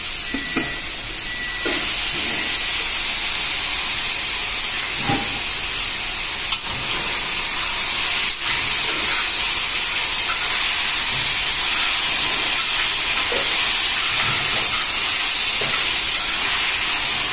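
Onion, capsicum and chilli paste frying in a large wok, a steady loud sizzle, with a few knocks of the stirring spoon against the pan.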